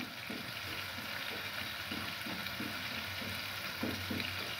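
Food frying in pans on a gas stove: a steady sizzling hiss, with occasional faint taps and scrapes of a cooking utensil in the pan.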